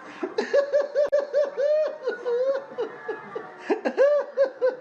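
High-pitched laughter used as a comic sound effect: a rapid string of short 'ha' syllables, about five a second, easing off briefly past the middle and picking up again near the end.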